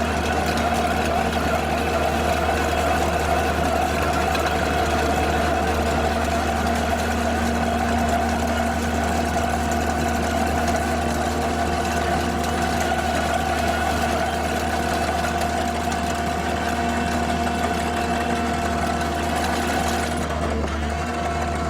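Skid steer loader running a cold planer attachment: steady engine and hydraulic drive noise with a constant whine, the high hiss easing slightly near the end.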